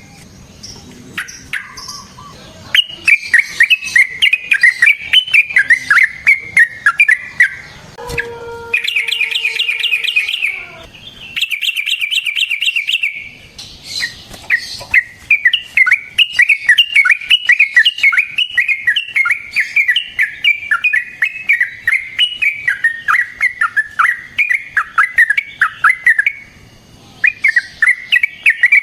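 Yellow-vented bulbul (trucukan) singing long, fast runs of repeated notes, broken about a third of the way in by two shorter buzzing trills.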